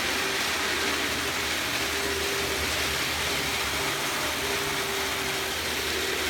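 TT scale model train running on the layout: the small electric motor and wheels on the track give a steady whirring hiss, with a faint whine that comes and goes.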